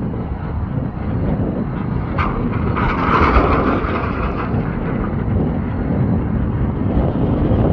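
Dull, deep thuds from a heavy drop weight breaking up runway concrete, carried through the ground, over a steady low rumble. A brief hissing noise comes in about three seconds in and lasts a second or so.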